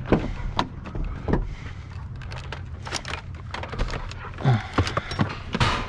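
Scattered knocks and clunks of scrap being handled and shoved into a pickup truck's cab, over a steady low hum.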